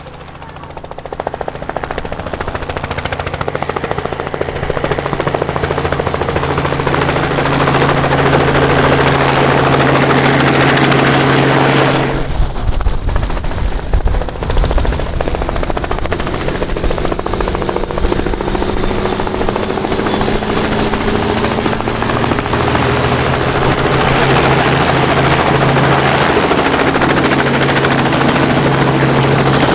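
Tour helicopter running close by with a steady rotor beat that grows louder over the first several seconds; about twelve seconds in a gusty low rumble takes over for a few seconds, then the rotor pitch glides slightly before settling steady.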